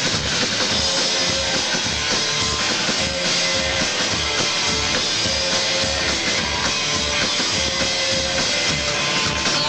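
Live rock band playing an instrumental passage: electric guitars over a steady drum-kit beat and bass, with no singing.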